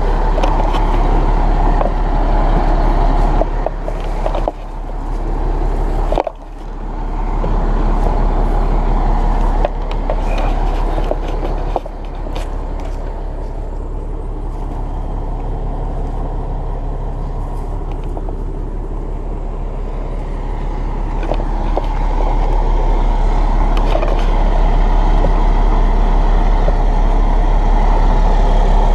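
A heavy engine running steadily close by, with a strong low hum. The level drops sharply twice about four to six seconds in and rises again in the last third, with scattered clicks and knocks over it.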